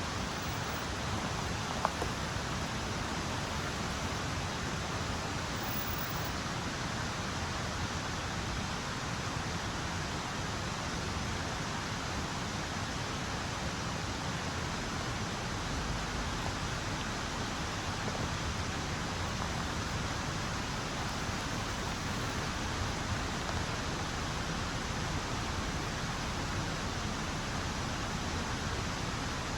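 A steady, even hiss of water, rain or a rushing river, with one sharp click about two seconds in.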